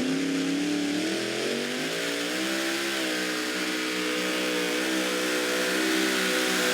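A pulling tractor's engine revs up over the first couple of seconds, then holds at high revs with its pitch wavering, slowly growing louder.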